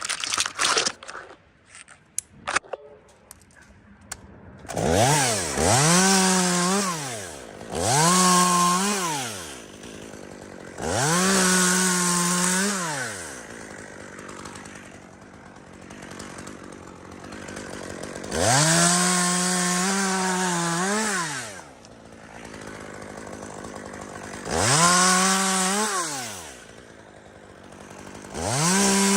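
Two-stroke chainsaw making a series of short cuts: six times it revs up to full throttle, holds for one to three seconds, then drops back to idle. A few sharp knocks and snaps come in the first couple of seconds, before the saw starts.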